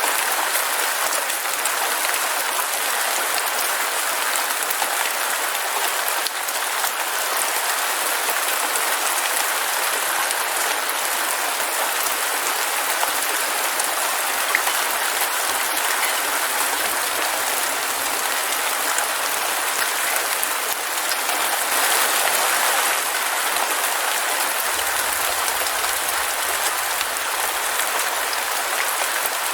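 Heavy rain falling steadily: a dense, even hiss of many drops with no breaks.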